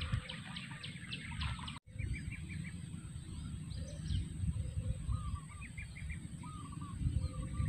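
Birds calling: short clusters of quick chirps, repeated every second or so, over a steady low rumble.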